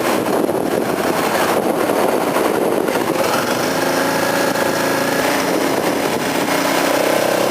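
Kawasaki KLX250SF supermoto's single-cylinder engine running as it is ridden, over a steady rush of noise. From about three seconds in, the engine's tone stands out more clearly and rises slowly.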